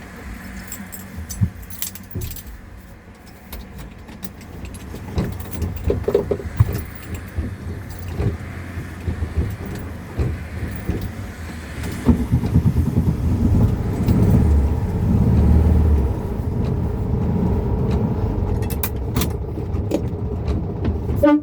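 Volkswagen Beetle's air-cooled flat-four engine running, heard from inside the cabin, with light clicks and rattles over it. The engine gets clearly louder about halfway through and stays so.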